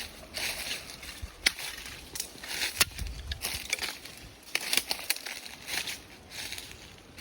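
Irregular crunching and crackling with a few sharp clicks, about one to two a second.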